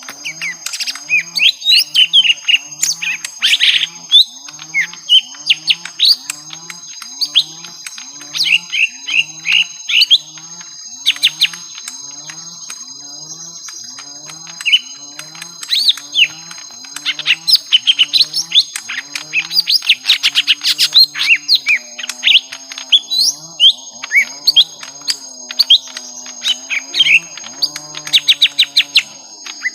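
Young lesser green leafbirds (cucak ijo mini) calling in fight mode: rapid bursts of sharp chirps and trills, coming in clusters. Under them a low call repeats about once every 0.7 seconds, then turns into a wavering low tone about two-thirds of the way through. A thin steady high buzz runs beneath.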